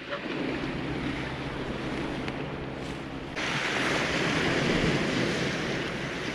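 Sea surf on a cobble beach: a steady wash of waves, with a louder, hissing rush coming in abruptly about halfway through and slowly easing off.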